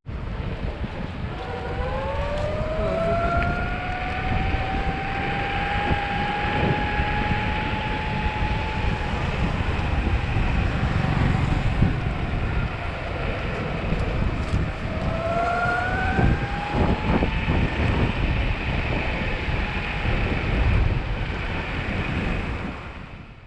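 Riding an electric longboard: wind buffeting the microphone and rumble from the wheels on the road, with the board's electric motor giving a whine that rises in pitch about a second in, holds steady, and rises again around fifteen seconds in as the board speeds up.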